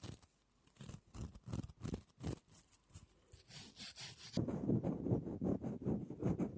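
Close-miked ASMR trigger sounds: quick, crisp scratching or rubbing strokes, then an abrupt switch about four seconds in to a different, denser and duller rustling trigger.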